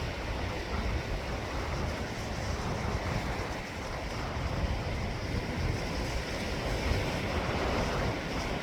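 Sea waves washing in, a steady hiss of surf, with wind buffeting the microphone in a low, gusty rumble.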